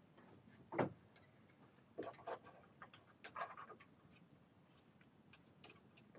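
Wood fire crackling: scattered small clicks and pops, with one sharper pop about a second in.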